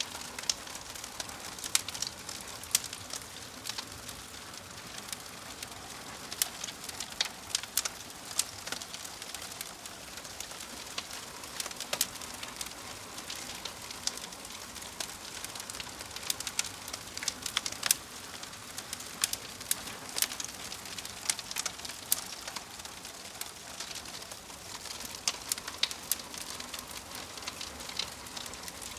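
Wood fire of burning logs in a fireplace, crackling and popping irregularly over a steady hiss.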